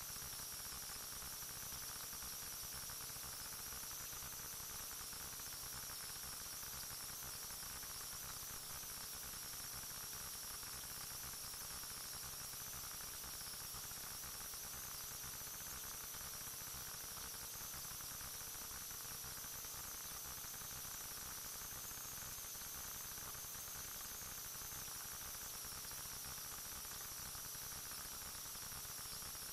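Steady electronic hiss and static with faint high-pitched whining tones and a weak low hum, unchanging throughout: recording noise with no other sound in it.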